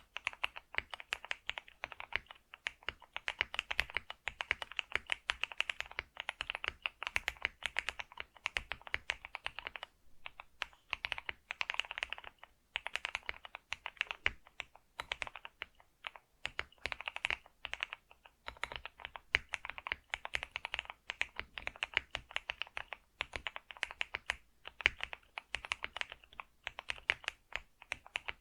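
Computer keyboard being typed on fast and continuously: a dense stream of key clicks with a few brief pauses.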